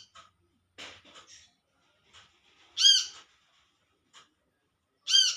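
Brown-throated sunbird calling: a loud, high, arched call about every two and a half seconds, once near the middle and again near the end, with fainter short chips between.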